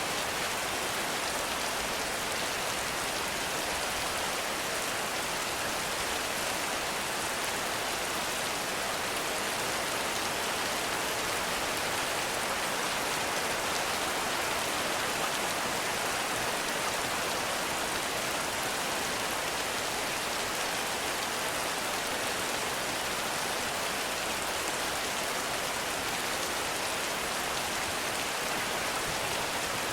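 Heavy rain falling steadily on a forest, a dense even hiss of countless drops with no pauses or changes.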